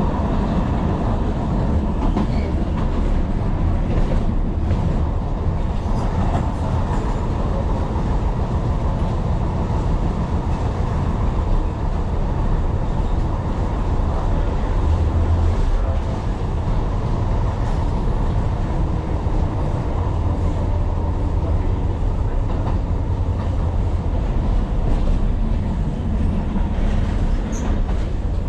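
Tyne and Wear Metro train running along the line, heard from inside the train: a steady rumble of wheels on rail and running gear, with a few faint clicks.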